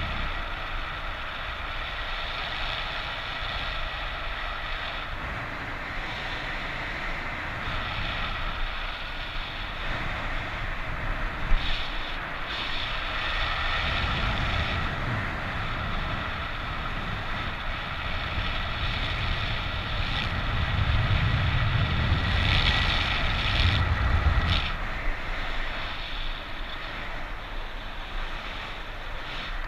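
Airflow rushing over the camera microphone of a paraglider in flight in strong wind. It swells into heavier low rumbling gusts about two-thirds of the way through, with a single sharp knock near the middle.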